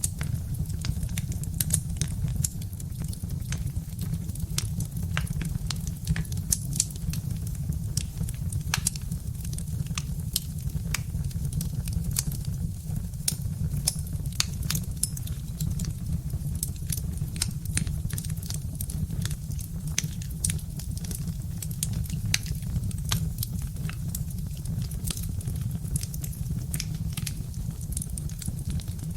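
Birch-wood fire crackling, with many small sharp pops coming irregularly over a steady low rumble.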